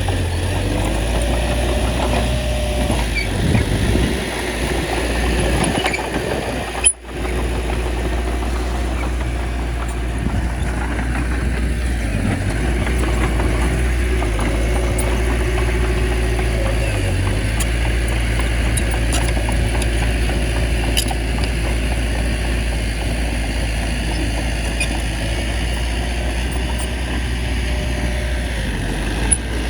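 Diesel engine of a small bulldozer running steadily with a deep rumble, its pitch shifting a little as it works. There is a brief break about seven seconds in.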